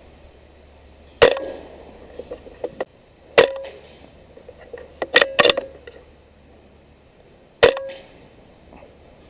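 Benjamin Marauder .22 PCP air rifle firing: sharp cracks each trailed by a brief ring, four shots spread through the stretch with a second crack close after the third, and lighter clicks in between.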